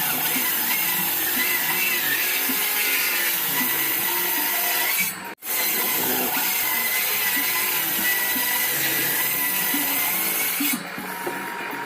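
An electric power tool cutting wood, its high whine wavering as the load changes, under background music. The sound drops out abruptly for an instant about five seconds in.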